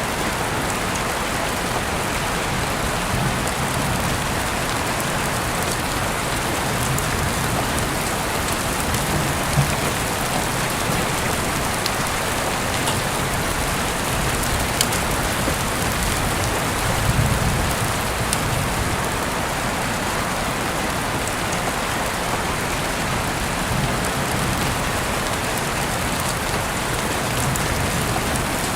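Steady, even rain, with a few sharp single clicks and a soft low rumble swelling briefly a little past halfway through.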